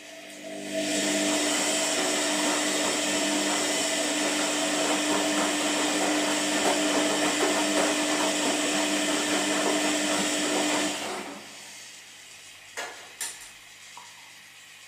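Washing machine motor running with a steady whine and a rushing noise, starting about half a second in and stopping after about ten seconds, followed by two short clicks.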